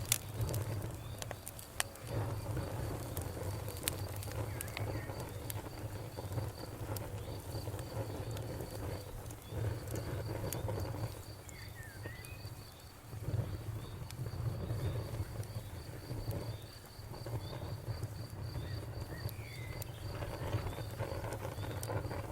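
Campfire burning with scattered sharp crackles and pops over a low rumble that swells and dips. A high, fast, evenly pulsed insect-like chirping runs steadily in the background.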